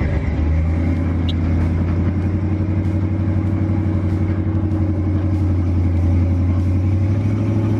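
Mega truck's engine running under way with a deep, steady note and a fast, even throb.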